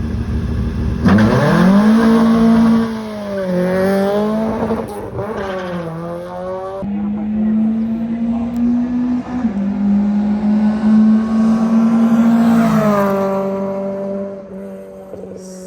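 A drag racing car launching hard and accelerating down the strip. The engine revs climb and drop back at each upshift, then hold steady before fading away near the end.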